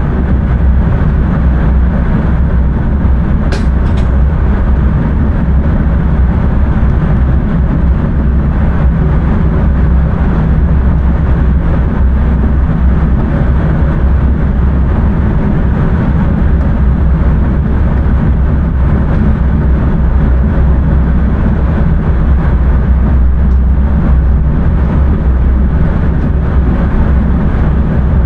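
Passenger train running along the track, heard from inside the driver's cab: a steady, loud rumble of wheels on rails and the running gear. Two faint ticks come about three and a half seconds in.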